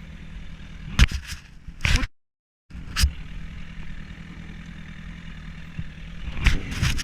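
Motorcycle engine running steadily, with a few sharp knocks over it; the sound drops out for about half a second early on.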